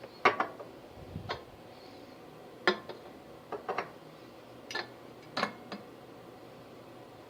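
A series of sharp clicks and taps at uneven spacing, about ten in all, some coming in quick pairs or threes.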